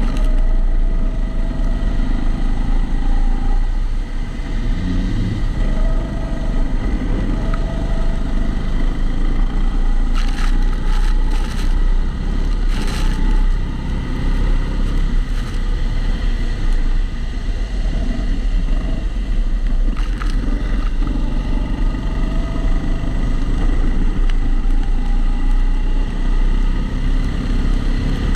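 Kombikart Eco rental kart's engine heard onboard, its pitch rising and falling again and again as the kart accelerates and brakes around the circuit. The sound is dulled by the camera's waterproof housing, which adds a recurring extra noise. A few short sharp clicks come about ten to thirteen seconds in and again near twenty seconds.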